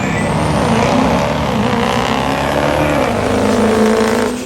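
High-horsepower diesel truck engine running hard with a high turbo whistle, the engine note wavering up and down; the sound drops off sharply near the end.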